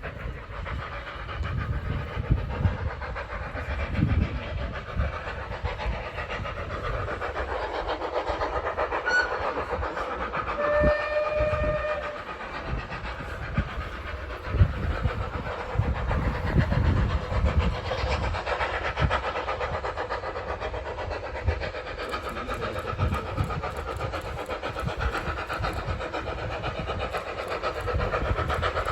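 Heritage railway train running, wheels clattering over rail joints, with one short whistle about eleven seconds in.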